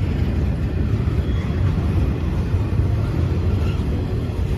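Freight or passenger train passing close by, a steady low rumble.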